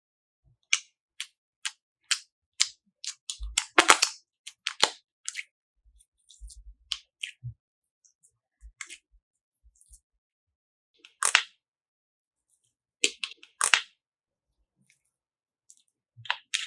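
Slime being squeezed and worked by hand, its trapped air popping in a scattered string of sharp clicks and snaps with silent gaps between. The pops come thickest about four seconds in and again in two clusters near the end.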